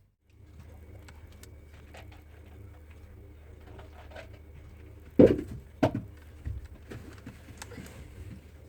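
Two short, low cooing calls about two-thirds of a second apart, like a pigeon's, with a fainter third after them. Light clicks and a steady low hum run underneath.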